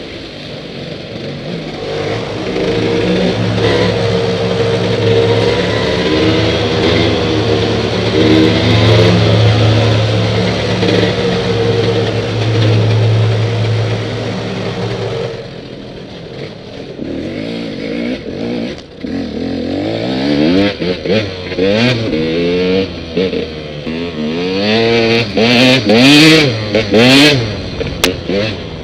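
Dirt bike engine running at a steady speed for about the first half, then revving up and down again and again, loudest near the end.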